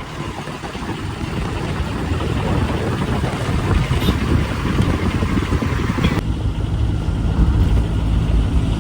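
Car on the move: engine running with road noise, growing louder over the first few seconds. About six seconds in the sound changes abruptly to a steadier low engine hum.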